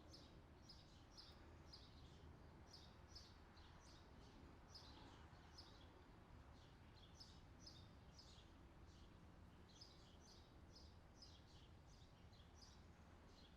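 Faint birdsong: many short, high chirps in quick succession, over a low steady hum.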